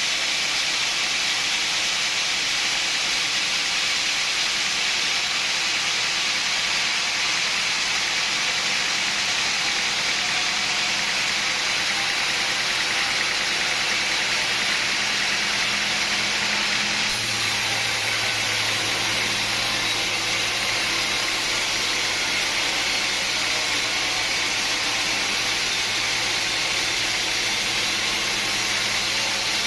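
Sawmill machinery running steadily, a loud continuous noise dominated by hiss. About two-thirds of the way through, the sound changes abruptly and a steady low hum joins in.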